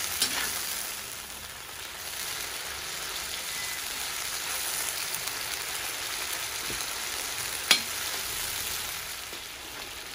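Meat and onions frying in cottonseed oil in a kazan, a steady sizzle as they give up their juices. One sharp click sounds about three-quarters of the way through.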